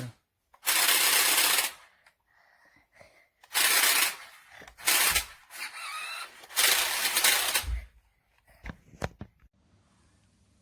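Toy remote-control monster truck's electric motor and plastic gears running in four short bursts of about a second each, followed by a few sharp clicks near the end.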